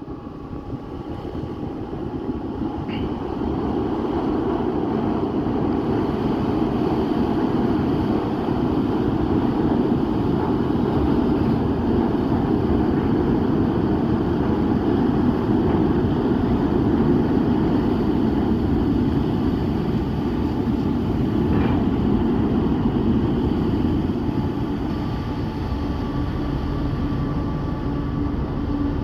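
A ferry's engines running: a steady low rumble with a faint steady hum in it. It swells over the first few seconds and then holds.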